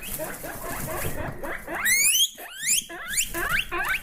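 Guinea pig squealing (wheeking): a run of short, high-pitched squeals, each rising in pitch, the loudest about two seconds in.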